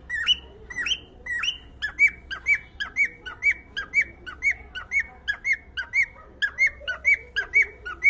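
Cockatiel whistling a short note over and over, about two notes a second, the pattern of the notes changing about two seconds in.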